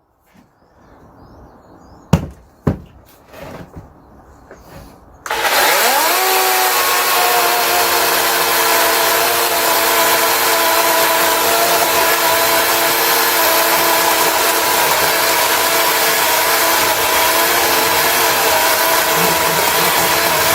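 Two sharp clicks, then a DeWalt 18 V cordless chainsaw's electric motor spins up about five seconds in, rising in pitch, and runs at a steady high speed.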